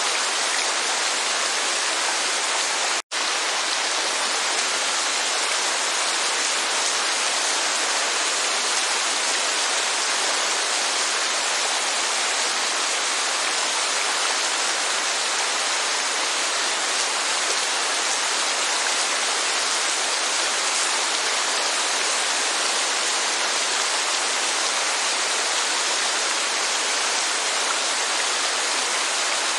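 Steady rain and falling water: a dense, even hiss with no single drops standing out. About three seconds in it cuts out for a split second, then goes on unchanged.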